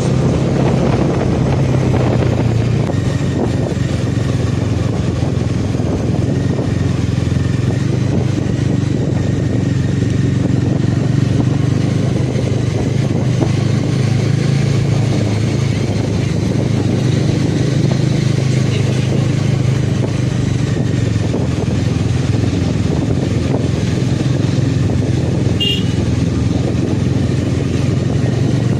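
Motorcycle engine running steadily under way, with road and wind rush, and a brief high chirp near the end.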